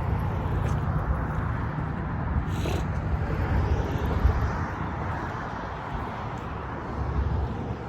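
Steady rumble of nearby road traffic with outdoor noise, and a brief high-pitched sound about two and a half seconds in.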